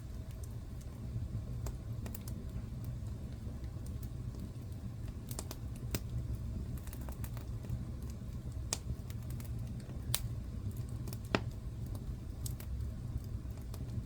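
Wood fire burning in a fireplace: a steady low rumble with irregular sharp crackles and pops, two louder pops a little after the middle.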